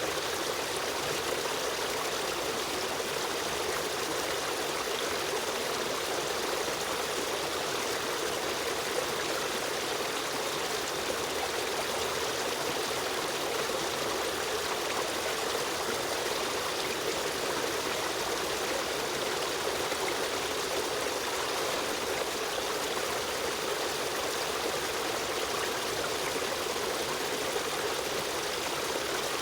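A river stream running steadily, an even rushing and trickling of flowing water with no breaks.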